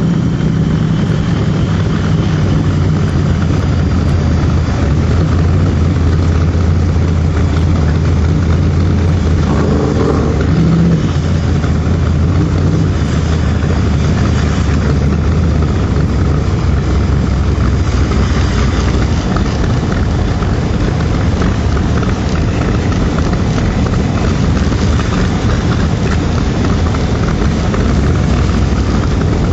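Shelby Cobra replica roadster's V8 engine running steadily at low speed, heard from inside the open car, with a slight change in its note about a third of the way in.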